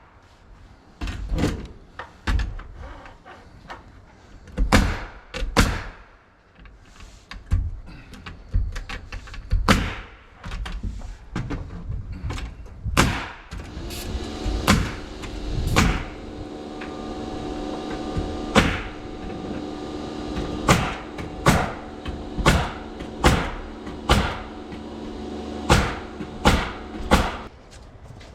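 Nail gun firing repeatedly into sheathing, sharp irregular shots about one to two seconds apart. About halfway through, a motor starts and runs at a steady hum under the shots, then stops shortly before the end.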